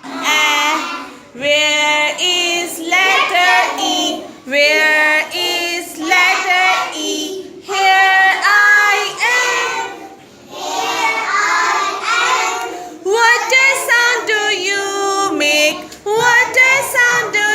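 A child's voice singing a vowel-sounds phonics rhyme in short phrases with brief pauses between them.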